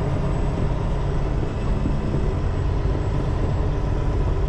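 Semi-truck's diesel engine running with a steady low drone, heard from inside the cab.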